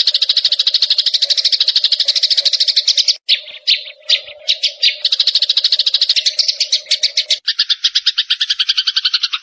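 Small songbird's rapid chattering trill, about eleven chirps a second, loud and clear. It falters briefly about three seconds in, then resumes, and changes to a different trill about seven seconds in.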